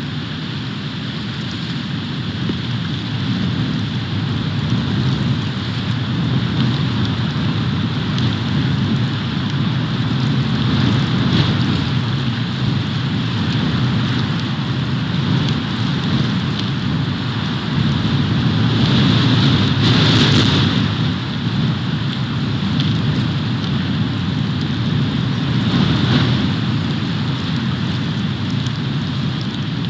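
Storm wind blowing over the outdoor nest-cam microphone in a snowstorm, a steady rushing noise. It swells in louder gusts about two-thirds of the way through and again shortly after.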